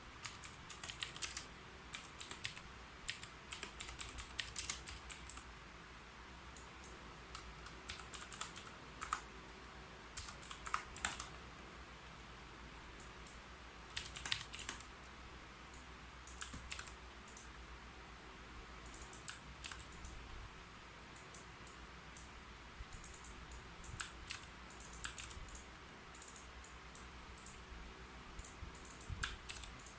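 Typing on a keyboard: runs of quick, light key clicks broken by short pauses.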